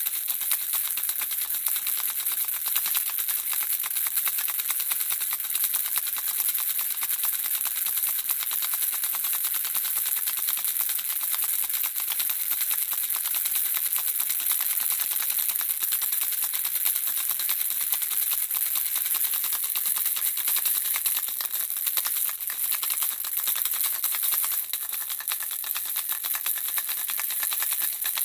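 Handheld baby rattle shaken steadily: a dense, unbroken stream of small pieces clicking inside it, bright and high-pitched with little low end.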